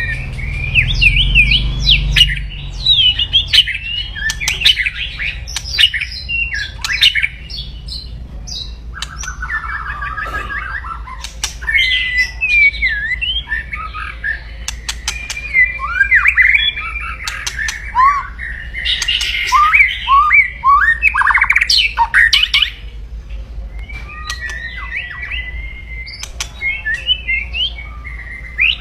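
White-rumped shama (murai batu) giving aggressive, loud 'kretekan' calls: fast harsh rattles and crackles mixed with quick whistled chirps and glides, running almost without pause, over a steady low hum.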